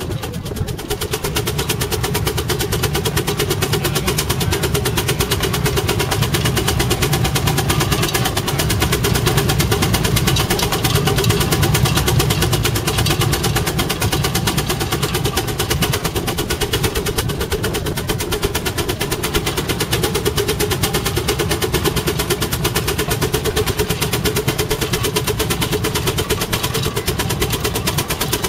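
Half-scale Case 65 hp steam traction engine pulling under load, its exhaust chuffing in a rapid, steady beat throughout.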